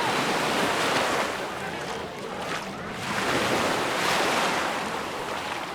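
Sea waves breaking and washing up on the beach, twice: one surge at the start and a second about three seconds in.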